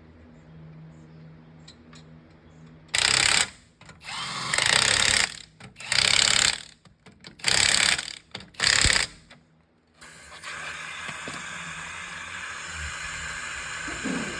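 A power tool runs in five short, loud bursts. A steady hiss follows from about ten seconds in.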